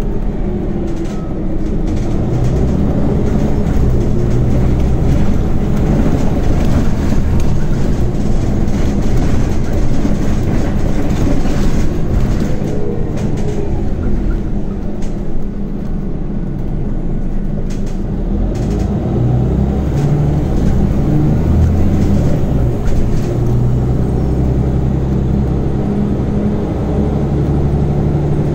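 Scania Omnicity city bus heard from inside while under way: the engine and ZF automatic transmission run as the bus pulls away and slows in traffic, with the engine note shifting in pitch. A whine falls in pitch around the middle, along with scattered short rattles.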